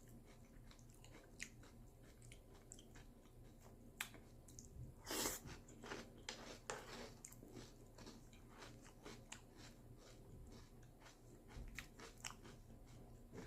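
Close-up chewing of crunchy breakfast cereal: scattered quiet crunches, one louder crunch about five seconds in, and a quick run of crunches shortly after.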